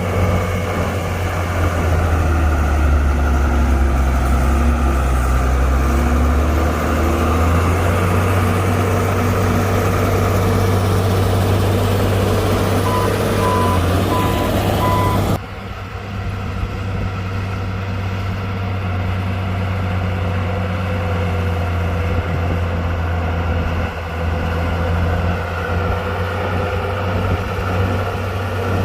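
Diesel engine of a Komatsu D60-P bulldozer running steadily under work, with a low, even hum. About halfway through a reversing alarm beeps four times, then the sound changes abruptly to a duller, quieter engine tone.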